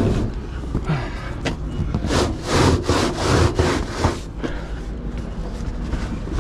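Heavy flatbed truck tarp being rolled up, with a run of about six rough rubbing swishes from about two seconds in, over a low steady hum.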